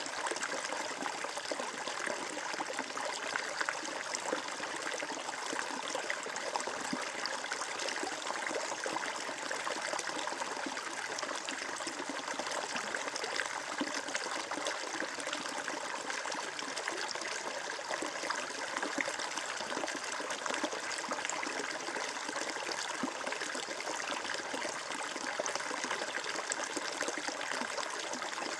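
Shallow stream of water flowing and trickling steadily, with a fine splashing texture.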